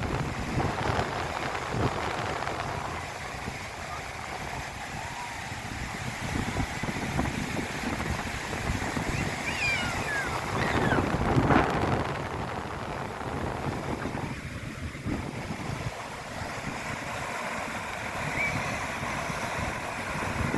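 Wind buffeting the microphone over the steady rush of big storm-driven waves breaking on the shore, with a louder surge about eleven seconds in. A few brief high-pitched chirps sound about halfway through.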